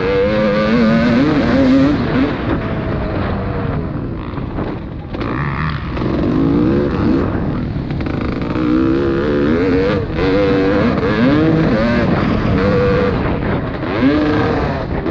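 Motocross bike engines revving up and down repeatedly as bikes ride the track, with a brief lull about four to five seconds in.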